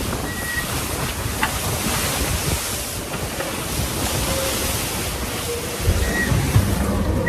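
Wind and sea rushing past an IMOCA racing yacht sailing in the open ocean, with wind buffeting the microphone.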